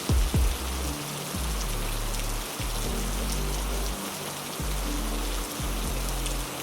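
Heavy rain falling steadily in an even hiss, with two loud low thumps just at the start and a low droning tone underneath that shifts pitch every second or so.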